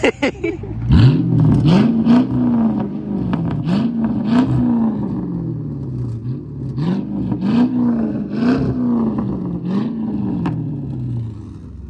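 Chrysler 300C's V8 revved hard through a loud aftermarket exhaust: about eight blips of the throttle, each climbing quickly and falling away slowly, with short sharp sounds over the revs.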